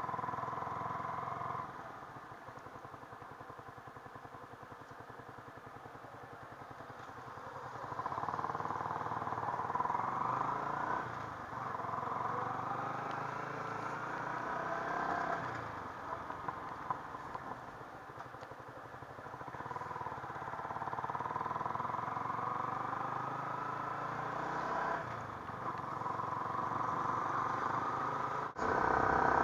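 Yamaha R15 V3's single-cylinder engine running under way, its pitch rising through several accelerations and dropping back between them.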